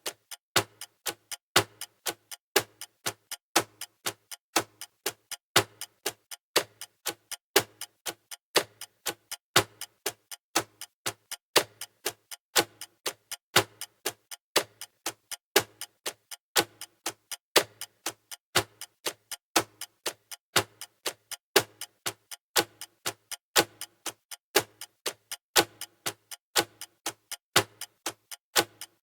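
Clock ticking sound effect, steady and even at about two ticks a second.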